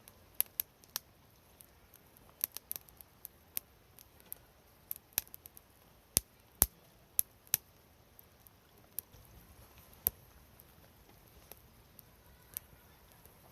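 Campfire crackling: burning firewood giving irregular sharp pops and snaps, thick in the first several seconds and thinning out toward the end.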